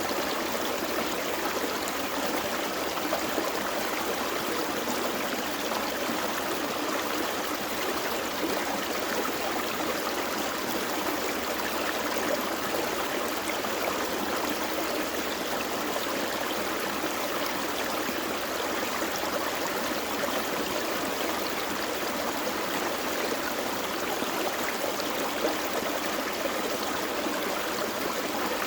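A gentle forest creek flowing over rocks, a steady even rush of water without breaks.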